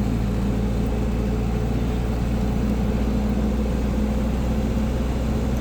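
An old car's engine running steadily, heard from inside the cabin: a constant low drone with road noise that keeps an even level throughout.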